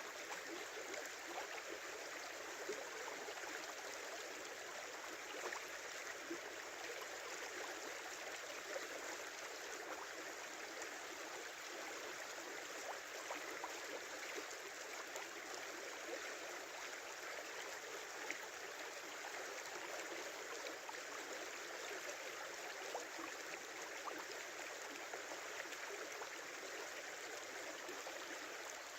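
Small river babbling steadily, an even rush of flowing water flecked with small splashes and trickles.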